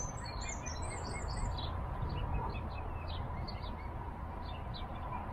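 Small songbirds chirping and twittering in quick, repeated short calls, over the steady low rumble of the narrowboat's engine.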